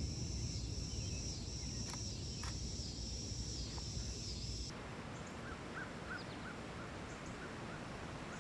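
Insects trilling in a steady high-pitched chorus, pulsing about once or twice a second, over a low rumble that dies away at the start. About halfway the trill cuts off suddenly, and faint short chirps go on.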